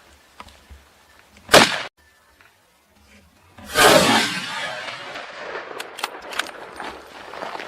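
Two gunshots. The first, about one and a half seconds in, cuts off abruptly. The second, about two seconds later, is the loudest and dies away slowly, echoing, with scattered clicks after it.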